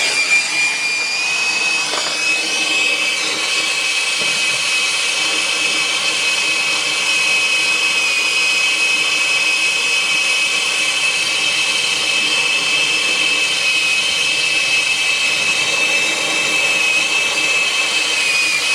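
Small power tool motor starting abruptly and running steadily at a high-pitched whine, working on the dehumidifier's copper refrigerant line.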